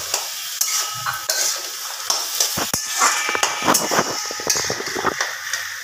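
Malabar spinach and potatoes sizzling in a metal karai while a spatula stirs, mashes and scrapes them, tapping against the pan many times.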